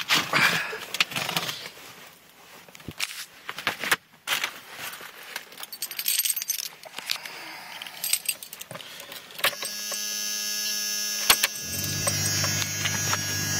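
Keys jangling with clicks and rattles of handling the key in a 1997 Dodge diesel pickup, then about ten seconds in the truck's steady electronic warning buzzer starts with the key in the ignition. A couple of seconds later a steady low hum joins it as the ignition is switched on, before the engine is cranked.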